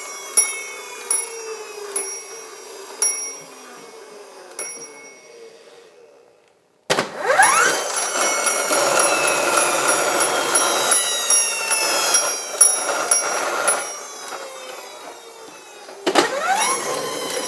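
Fire engine siren winding down with regular high dings, then after a short break winding up steeply into a loud steady wail, dropping off and starting to wind up again near the end.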